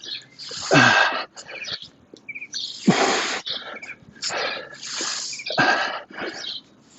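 A person breathing out hard and hissing during a strenuous plank exercise, a forceful exhale every second or two. Birds chirp faintly in the background.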